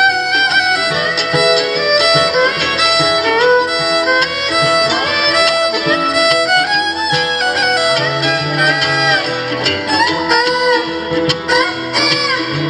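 Fiddle playing an instrumental melody of many short notes with some slides, over guitar accompaniment.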